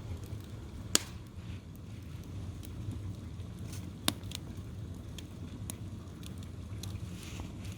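Wood fire crackling with scattered sharp pops, two of them loud, about one second and four seconds in, over a steady low rumble.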